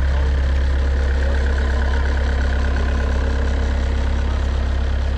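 Diesel engine idling steadily, a deep, even hum that holds constant throughout.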